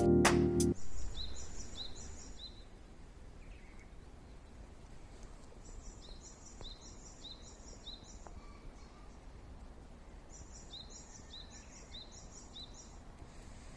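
A small songbird singing three bouts of a high, quickly repeated two-note phrase, each bout of four to six repeats, over a faint steady outdoor background. A music track stops abruptly under a second in.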